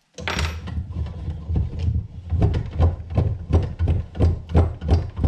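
Rhythmic clunking and knocking, about three strokes a second, from the metal parts of a drill press being worked by hand during assembly.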